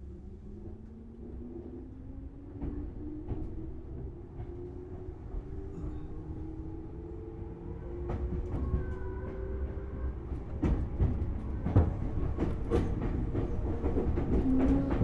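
Tobu Series 6050 electric train's traction motors, under Hitachi resistor control, whining steadily upward in pitch as the train accelerates, over a low running rumble. From about eight seconds in, the wheels clack over rail joints more and more often and louder as speed builds.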